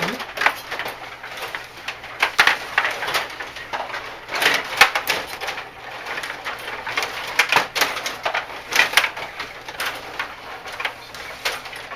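Rapid, irregular clicking and clacking of hard objects knocking together during play, several sharp strikes a second at the busiest moments.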